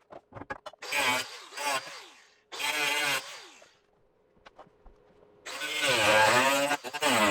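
Handheld power cutting tool run in three short bursts on the car's sheet-metal body panels, its whine dipping and recovering as it bites, the last burst the longest. A few light clicks come before the first burst.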